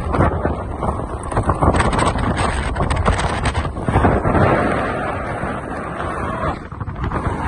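Strong wind buffeting the microphone: a loud, gusty rumble that eases a little after about six seconds.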